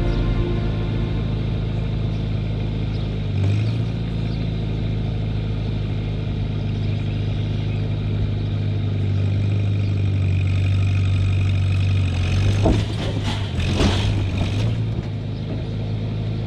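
Vehicle engine running steadily under load while pulling a shed, its note stepping up slightly about three and a half seconds in, with a few clattering knocks near the end.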